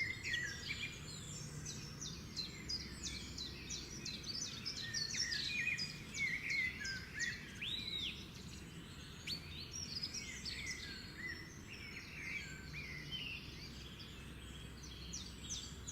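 Many small birds chirping at once, short overlapping chirps and quick whistled glides, over a steady low background rumble.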